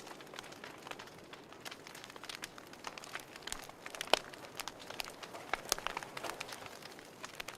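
Wood fire crackling in a fireplace: irregular sharp pops and snaps over a soft hiss, with one louder pop about four seconds in.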